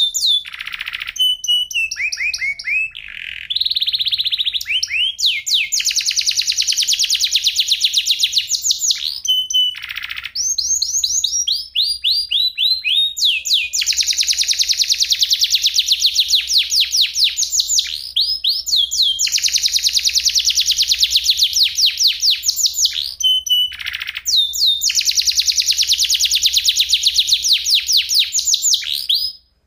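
Domestic canary singing long, rapid rolling trills of quickly repeated sweeping notes, in several long phrases with short breaks between them. The song stops abruptly shortly before the end.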